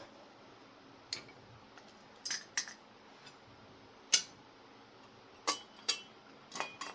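Small hard parts clinking and knocking as they are handled and set down: about eight sharp clinks spread out, a few near the end with a short metallic ring.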